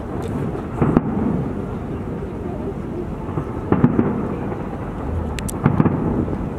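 Aerial fireworks bursting: a continuous deep rolling rumble of booms, with sharper bangs about a second in, near four seconds, and twice near six seconds.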